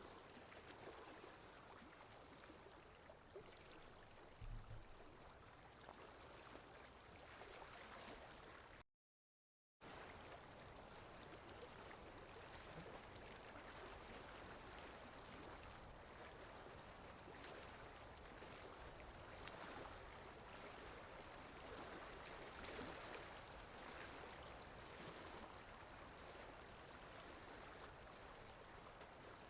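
Soft, steady rainfall, an even faint patter and hiss of water with no single drops standing out. A brief low thump comes about four and a half seconds in, and the sound cuts out completely for about a second around nine seconds in before resuming.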